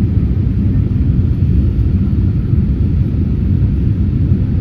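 Boeing 787 jet airliner taking off: a loud, steady low rumble of engines and airframe.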